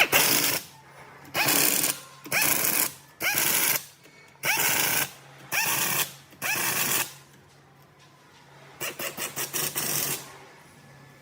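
A power tool, likely pneumatic, is run in seven short bursts, each spinning up with a rising whine. Near the end it gives a quick stuttering run of about eight pulses.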